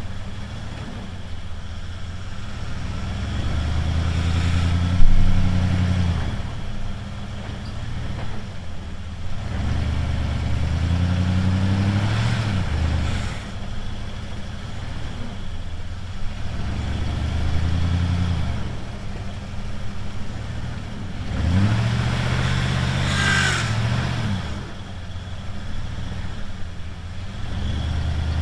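A Ford F-150 pickup engine revving up and dropping back in repeated surges, several seconds apart, as the truck works back and forth trying to break through a crusted snowdrift. There is a sharp bang about five seconds in.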